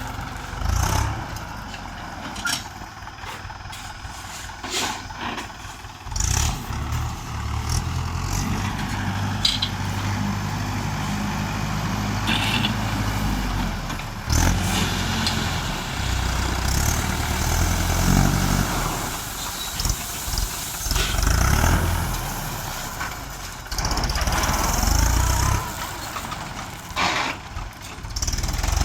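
Mahindra DI 475 tractor's four-cylinder diesel engine running under work, its speed rising and falling several times, with occasional sharp knocks.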